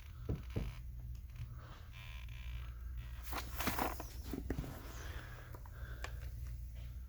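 Rustling and scraping of someone crawling and shifting through a crawl space, with a couple of light knocks early and a louder scuffle around the middle, over a low steady hum.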